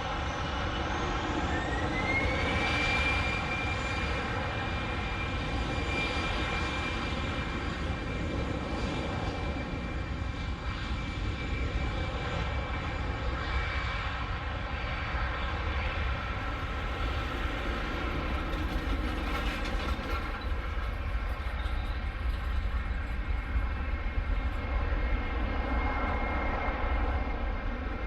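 Airbus A319-111's twin CFM56-5B turbofan engines running at high power: a rising whine about two seconds in, then a steady whine over a deep rumble, as the thrust is set for the takeoff roll.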